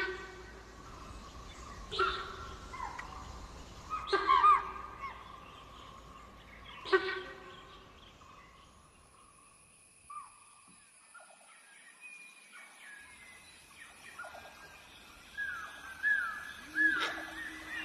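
Deer giving loud, sharp alarm calls, four of them two to three seconds apart, the warning that a tiger is in the open. After that, birds call in short gliding notes over a thin high steady whine, with one louder call near the end.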